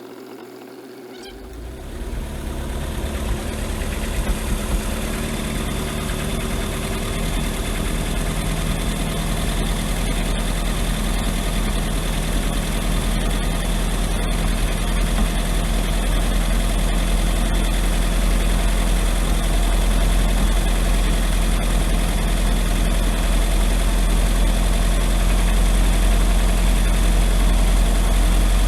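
Carbureted MerCruiser 3.0 L four-cylinder sterndrive engine starting about a second in, then running steadily and getting gradually louder. It is a cold start on the electric choke, which opens as the choke spring heats.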